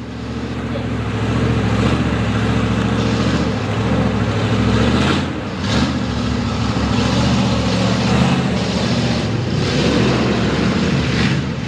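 Mega mud truck's V8 with open headers running hard and loud, its note holding steady with a brief change in pitch about six seconds in.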